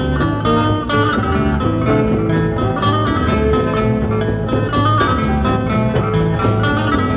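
Rock band playing a live instrumental jam: guitars, bass and drums with a steady cymbal-and-drum beat, and no singing.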